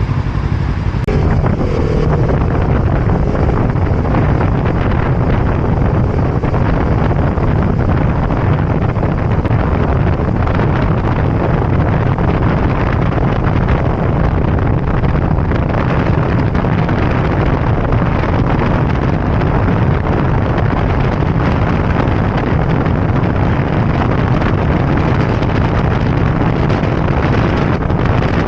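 Steady wind rushing over the microphone of a motorbike on the move, with engine and road noise beneath.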